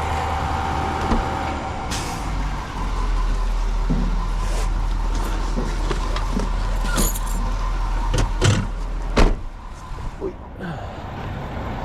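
Truck engine running with a steady low hum, then several sharp knocks or clunks in quick succession, the loudest about nine seconds in, after which the hum drops away.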